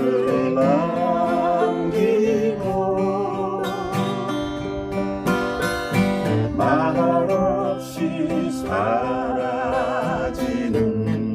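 Acoustic guitar and ukulele strumming a slow folk-song accompaniment, with a woman singing in phrases at the start, in the middle and near the end, her voice carrying a wide vibrato.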